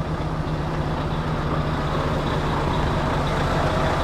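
Lorry's diesel engine running steadily, a low, even hum.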